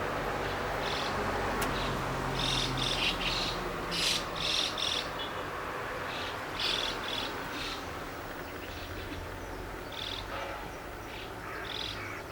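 Small birds chirping: short bursts of rapid high chirps in irregular clusters, over a steady background hum.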